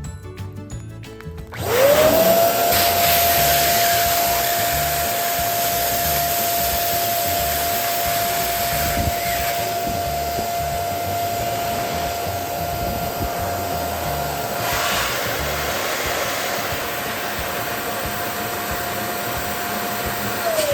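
Electric balloon inflator switched on: its motor whine rises quickly to a steady pitch over a loud rush of blown air, runs for about eighteen seconds while filling a balloon, then winds down as it is switched off near the end. Background music plays at the start and continues faintly underneath.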